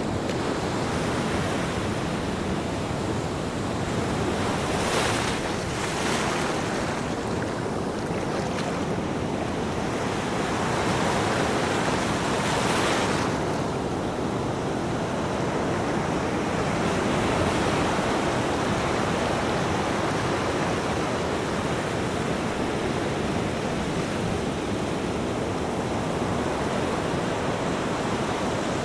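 Ocean waves breaking on a beach in a steady wash of surf, swelling louder now and then as a wave breaks, around five seconds in and again around twelve seconds.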